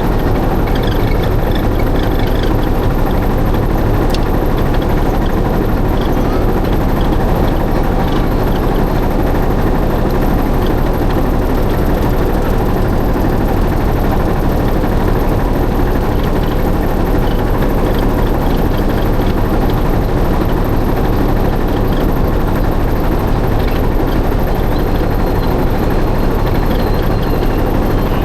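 River boat's motor running steadily, an even engine noise that holds the same pace and level throughout.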